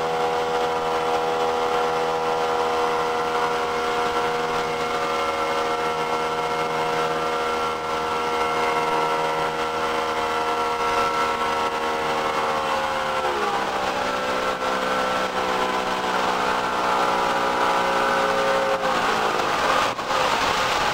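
Motorboat engine running at a steady pitch, then easing off in two steps, about two-thirds of the way in and again near the end. A hiss of water and wind runs underneath.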